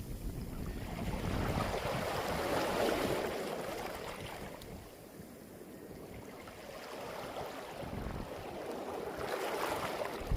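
Waves washing up a beach of round pebbles and drawing back, the pebbles rattling in the backwash. One wave swells up about two to three seconds in and fades, and a second builds near the end.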